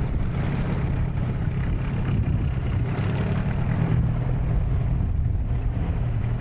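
Hidea 9.9 outboard motor running steadily at low trolling speed, with wind on the microphone and waves.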